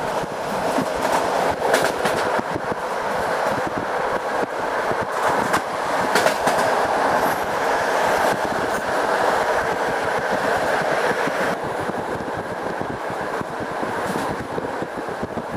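Passenger train carriage running at speed, heard from inside: a steady rumble of wheels on the rails, with a few sharp clacks over rail joints.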